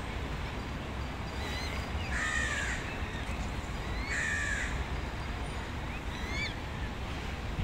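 A bird giving two harsh, caw-like calls about two seconds apart, with a few short, thin chirps from another bird between and after them, over a steady low rumble.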